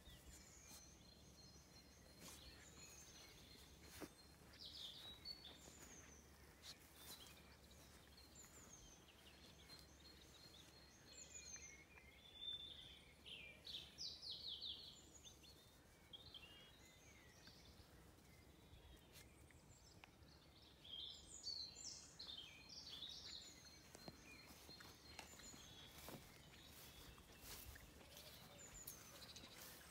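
Faint birdsong: several small birds singing in short chirps and downward-sliding whistles, busiest about halfway through and again a little later.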